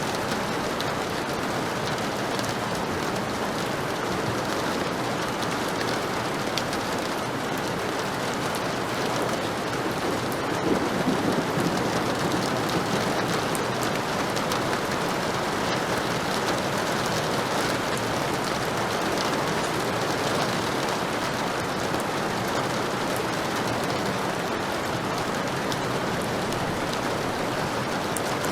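Heavy rain falling steadily, with a brief low rumble of thunder about ten seconds in.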